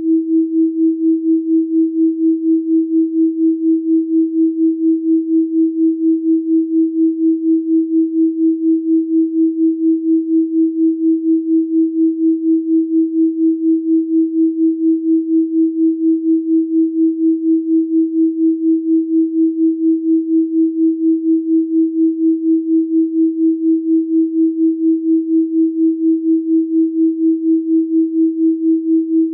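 Electronically generated 324 Hz sine tone, held at one steady pitch and pulsing evenly in loudness about three times a second.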